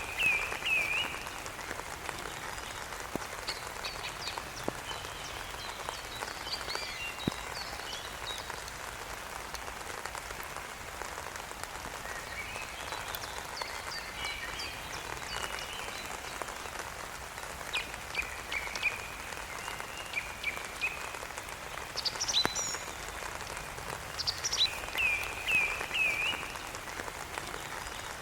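Steady rainfall hissing, with short high chirping calls that come in quick runs of three or four, clearest near the start and again near the end.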